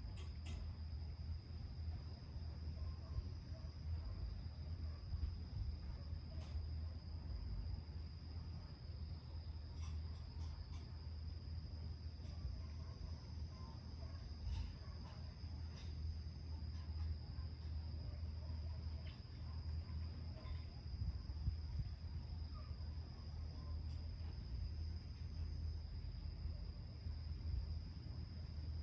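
Insects, crickets among them, chirping steadily in the dusk: one holds a continuous high trill while another pulses very high at an even rate. A low steady rumble sits underneath, with a few faint clicks.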